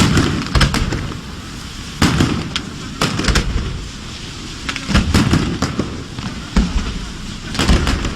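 Fireworks display: a string of aerial shell bursts, loud bangs coming about once a second in irregular clusters, each followed by a low rumbling echo and crackle.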